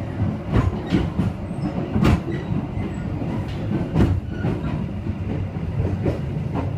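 Executive-class passenger coach of the Taksaka train running along the track, heard from inside: a steady rumble of wheels on rail with irregular clacks and knocks from the track, the sharpest about two seconds in and again about four seconds in.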